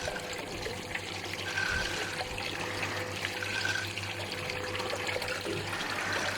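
Water trickling and splashing steadily beside a small fishing boat, with a low steady hum joining in about a second and a half in.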